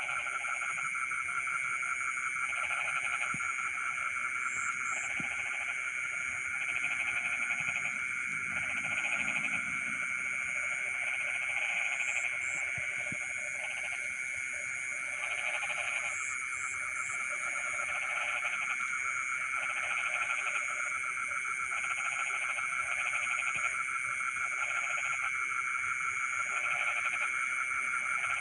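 Chorus of frogs calling at night: a steady high trill throughout, with croaking calls repeating about once a second over it.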